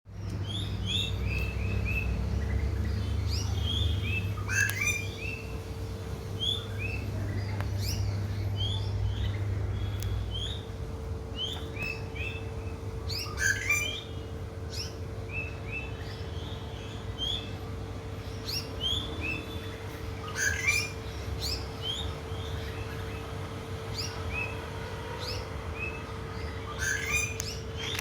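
Small birds chirping: many short, sharp notes repeated throughout, with a few louder bursts of calls, over a steady low hum.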